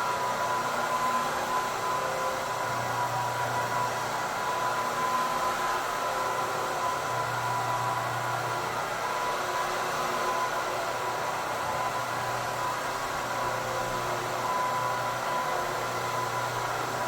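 An electric floor machine's motor running steadily with a constant whine, its low hum swelling and fading every couple of seconds.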